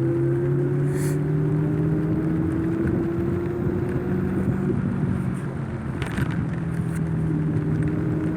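Wind rushing over the microphone while riding an iSinwheel S9 Max electric scooter, with a steady hum underneath that rises slowly in pitch for about five seconds, then drops and comes back near the end.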